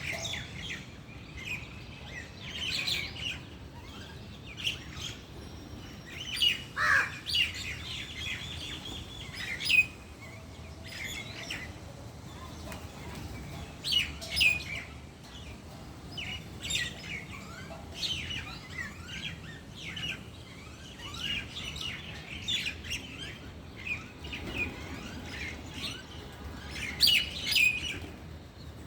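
Birds chirping and calling, many short chirps overlapping in quick clusters, with one call about seven seconds in sliding sharply down in pitch.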